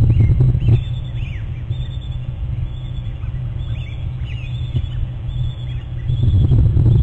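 Birds calling in a run of short, high chirps and squeaks, over a heavy low rumble that is loudest in the first second and swells again near the end.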